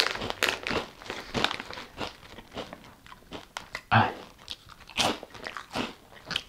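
Close-up crunching chews of keto cheese puffs made from milk protein isolate, a quick run of crisp irregular crackles, with a fresh bite into another puff about four seconds in.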